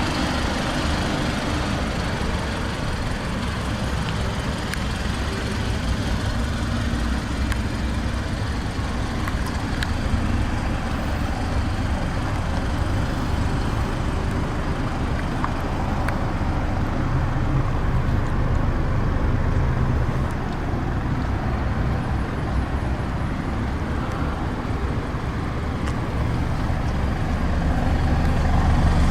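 Mazda 6's 2.5-litre inline-four engine idling steadily as a low, even rumble, growing somewhat louder near the end.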